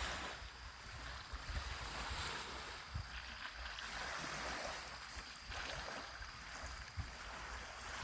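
Wind buffeting the microphone: an uneven low rumble with a faint steady hiss.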